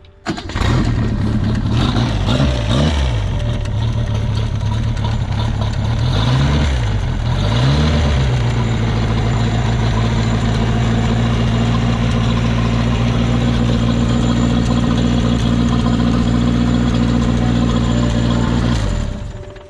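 Boat engine of a 1982 Citation Sprint starting up and revving twice, then running at a steady idle for about ten seconds before it is shut off abruptly.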